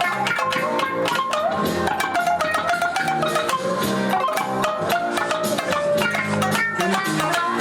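Tsugaru shamisen played in a fast run of sharp, percussive plucked notes, some sliding in pitch.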